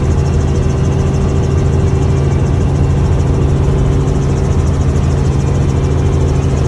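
Loud, steady engine drone with a deep hum that holds one pitch throughout.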